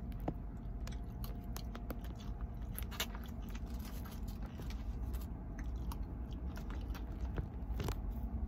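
Close-miked chewing and biting of a mouthful of food, a run of small wet clicks and crunches, over a steady low hum.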